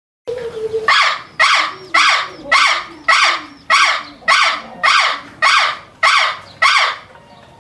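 An animal call repeated about eleven times in a steady rhythm, roughly two a second, each call loud and harsh, then cutting off abruptly.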